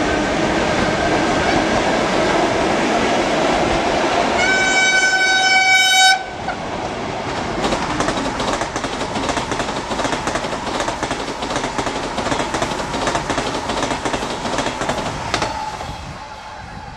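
Electric trains passing close by: first a steady running noise with a faint whine, over which a high train horn sounds for nearly two seconds and cuts off abruptly. Then a Sapsan high-speed train (EVS1) runs past with fast, continuous clicking of its wheels over the rail joints, which stops suddenly near the end and leaves a quieter rumble.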